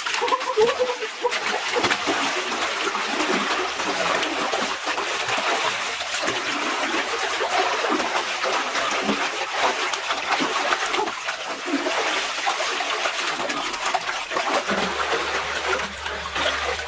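Water splashing and trickling, a dense steady crackle of many small splashes.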